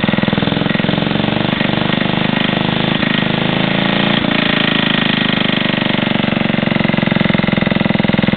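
Old Briggs & Stratton single-cylinder engine on a walk-behind garden tractor, running steadily with an even firing beat. The owner hears a knock in it and is unsure whether it is the connecting rod or debris packed in the cooling shroud.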